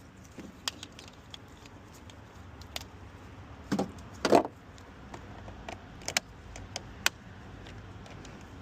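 Scattered sharp clicks and clatter, with two louder clunks about four seconds in, from a jump pack's clamps and cables being handled and fitted to the car battery.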